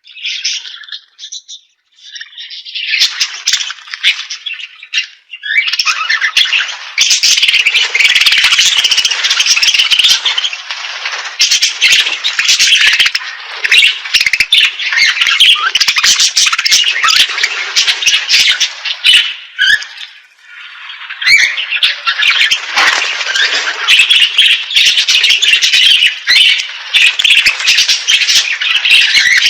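A crowd of pet cage birds chirping and squawking together in a dense, busy chorus, with a brief lull about two-thirds of the way through.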